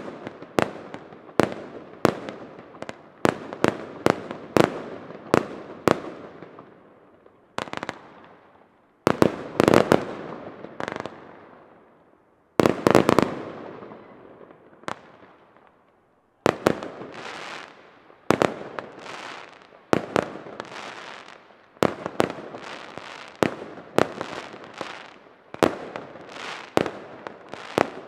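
Fireworks display: sharp bangs follow one another about once or twice a second, each trailing off in a fading hiss. Twice, about nine and about thirteen seconds in, a dense cluster of loud crackling bangs rises above the rest.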